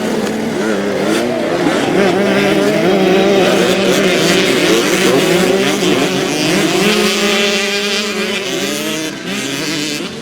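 Several youth motocross bikes racing past together, their engines revving and wavering in pitch over one another, loudest in the middle and easing off near the end.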